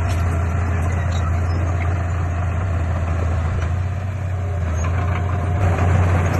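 Heavy diesel engine of earthmoving equipment running steadily with a deep hum, swelling slightly near the end.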